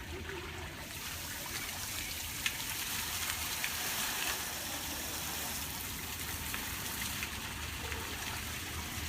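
Water fountain splashing steadily, with a few brief small splashes.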